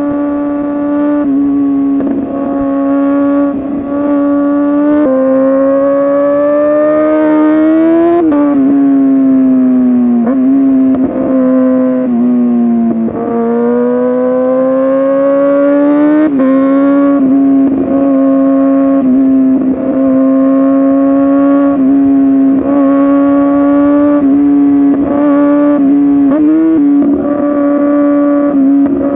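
Kawasaki ZX-6R's inline-four engine through an SC-Project exhaust, running hard at high revs while riding. The pitch holds steady for stretches, climbs and then drops sharply about eight seconds in, sags and rises again, with brief dips as the throttle and gears change.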